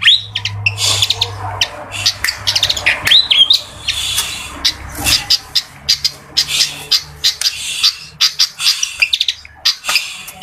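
A fantail (burung kipasan) singing: a rapid, continuous run of high, squeaky chirps with short rising whistled notes mixed in.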